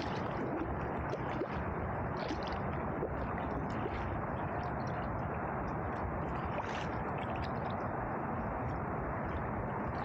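Steady rush and gurgle of river water around a canoe, with small splashes and drips scattered through it.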